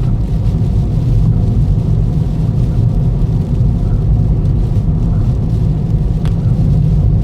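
Steady low rumble of a Toyota Ractis's road and engine noise, heard from inside the moving car, with a small click about six seconds in.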